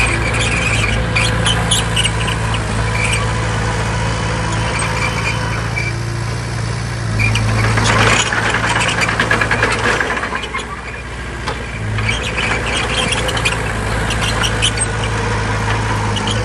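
Bulldozer's diesel engine running with a steady low drone and irregular high-pitched squeaks, typical of crawler tracks. It gets louder about eight seconds in and eases off briefly a few seconds later.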